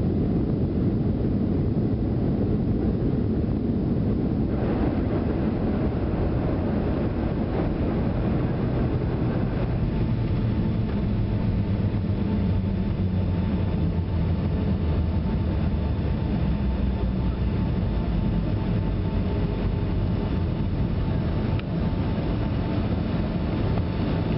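Steady low roar inside the cabin of a Boeing 757 on the ground just after landing, from its engines and rolling, with a faint steady whine coming in about halfway through.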